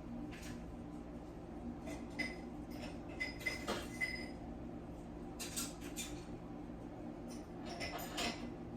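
Newborn dachshund puppies giving a few short, high squeaks, over soft rustling and a low steady hum.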